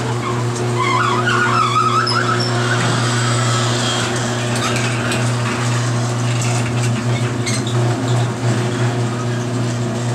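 Electric garage door opener running as the door closes: a steady motor hum with squeaks and rattles from rollers and joints that have gone about ten years without lubrication. The squeaks are strongest in the first few seconds.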